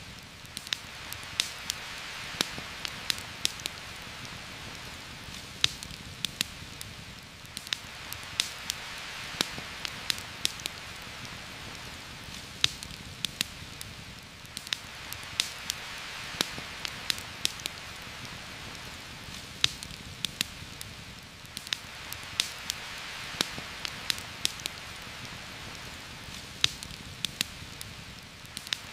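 Steady heavy rain falling on forest leaves, swelling and easing every several seconds, with a campfire's sharp crackles and pops scattered throughout.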